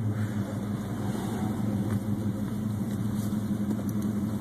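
Classic car's engine running steadily while driving, heard from inside the car, with a low even hum over road noise.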